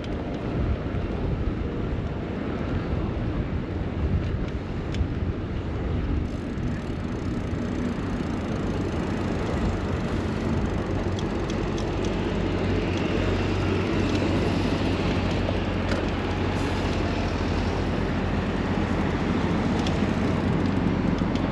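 City road traffic heard from a bicycle: a continuous rumble of vehicles, with a steadier low engine hum from about six seconds in.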